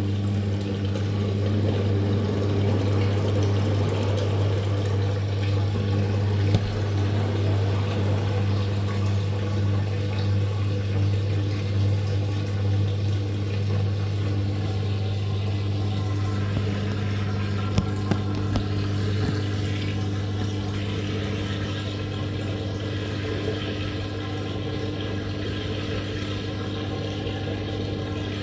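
Living & Co 5.5 kg top-load washing machine draining before its final spin: the drain pump hums steadily while water rushes out through it.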